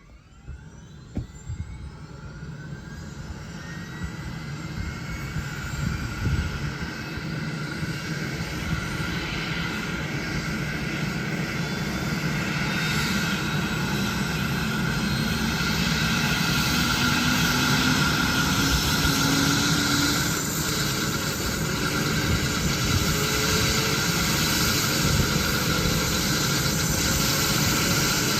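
Rescue helicopter's turbine engine starting up: a rising whine as the engine spools up, growing steadily louder for about the first half, then a steady turbine and rotor sound as the rotor comes up to speed with another tone slowly climbing in pitch.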